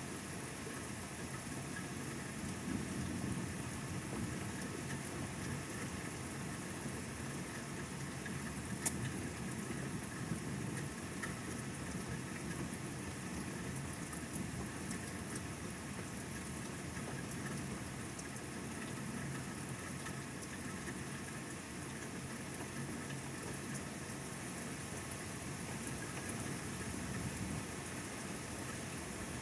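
Steady rain falling during a thunderstorm, an even hiss with no letup. A sharp tick comes about nine seconds in and another a second or so later.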